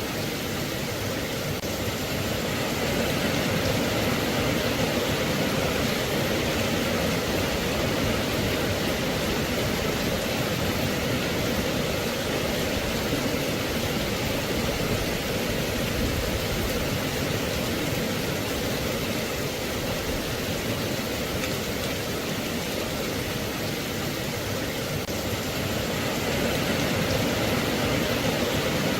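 Steady rain falling, an even rushing hiss with no single drops standing out, swelling and easing slightly in loudness.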